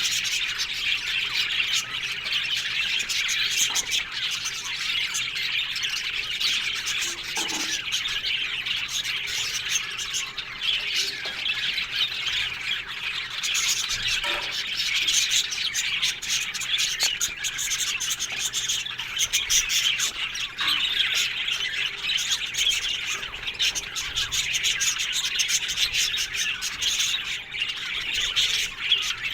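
A colony of budgerigars chattering and squawking together, a dense, continuous mass of overlapping chirps and warbles.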